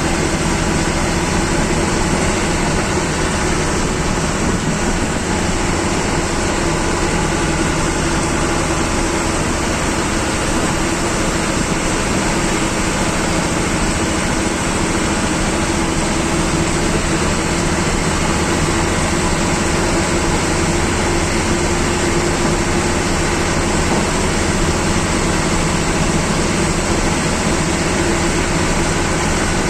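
Government bus's diesel engine running under way, heard from inside the driver's cabin as a loud, steady drone with a constant hum and road noise.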